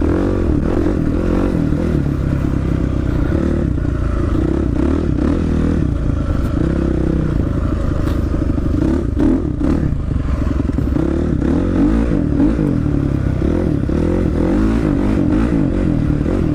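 Two-stroke dirt bike engine running in second gear on a trail, its pitch rising and falling with the throttle. Scattered clatter and knocks from the bike over rough ground.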